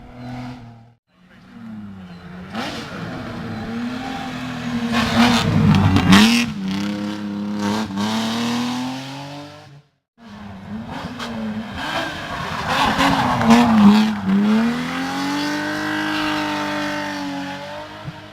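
Hill-climb race cars at full throttle, engine pitch rising and dropping through gear changes, with some tyre squeal. Two separate passes: the first cuts off abruptly about ten seconds in, and the second fades as the engine note falls near the end.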